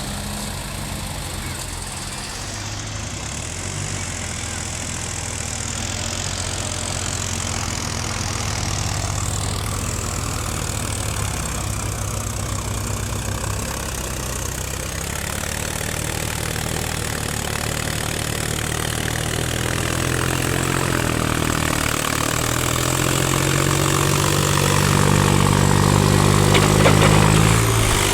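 Tractor engines running steadily, then revving up with a rising pitch over the last several seconds before dropping back near the end.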